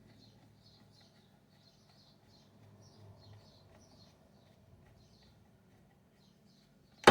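Faint, repeated high chirping like a small bird, over a low steady hum; a sudden loud noise starts right at the end.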